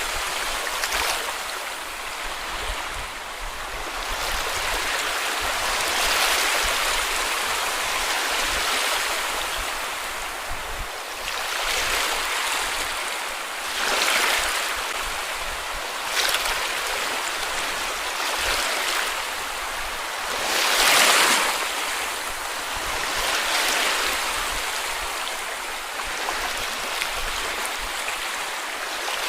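Small sea waves washing onto a beach: a steady hiss of surf that swells as each wave breaks every few seconds, with the loudest wave about two-thirds of the way through.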